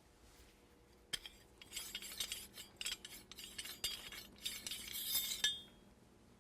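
Metal being machined while a rifle receiver is blueprinted: a cutting tool scraping on steel in uneven spells, starting with a click about a second in and stopping sharply near the end, over a faint steady machine hum.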